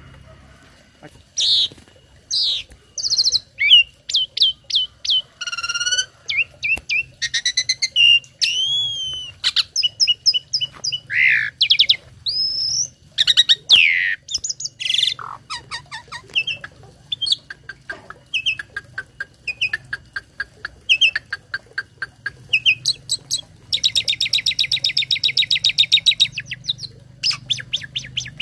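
Tame starling singing a long, varied song of whistled notes, slurred phrases and chirps, with mimicked fill phrases. Near the end it breaks into a fast, even rattling trill lasting a couple of seconds.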